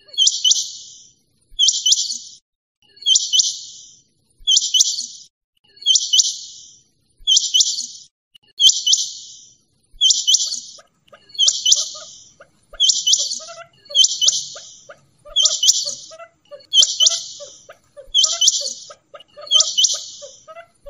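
Quail calling over and over at an even pace, a short high-pitched call about once every second and a half. From about halfway through, fainter, lower chirps join in.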